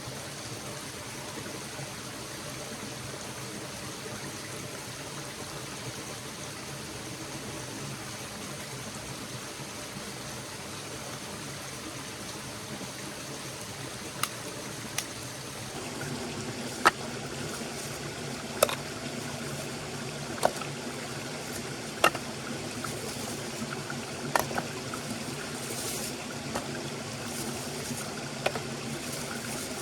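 A stream flowing steadily, the water growing a little fuller about halfway through. Over it come scattered sharp clicks or knocks in the second half, about a dozen.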